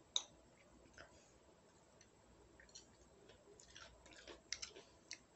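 Faint chewing of food, heard as scattered soft clicks and short crackly mouth sounds, with one sharper click just after the start and a small cluster of them a little after the middle.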